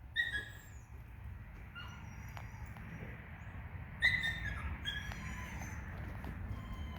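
Short, high chirping animal calls: quick falling notes, loudest right at the start and again about four seconds in, with a few fainter chirps between. A steady low rumble and a few light clicks run underneath.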